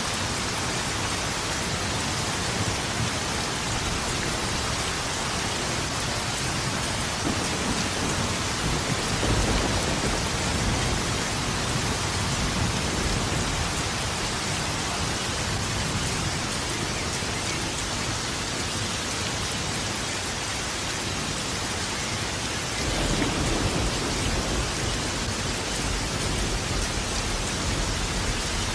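Steady heavy rain with rolling thunder, the low rumble swelling about nine seconds in and again near the end.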